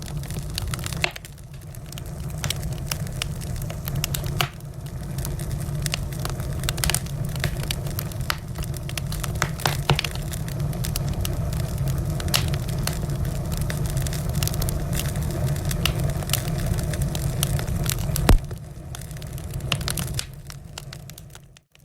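Wood fire crackling, with many sharp pops and snaps over a steady low rumble of burning. One loud pop comes about eighteen seconds in, and the sound briefly cuts out just before the end.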